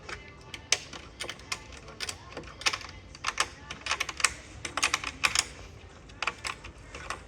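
Quick, irregular run of light clicks and taps, several a second and much like typing: small black plastic caps being handled and pressed over the fastened bolt heads of a bed frame.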